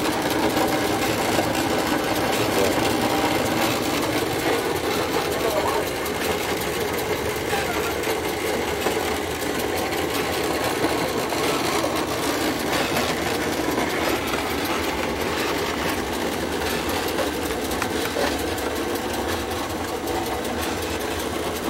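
Homemade corn-grinding machine running steadily while it grinds fresh corn, a continuous fast mechanical whir.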